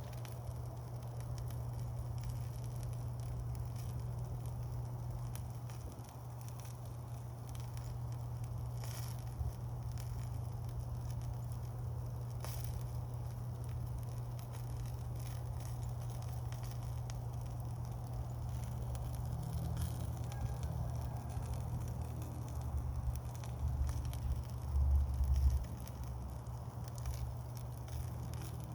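Wood campfire burning with a steady low rush and scattered crackles, two sharper pops about a third of the way in. Several low thumps come near the end.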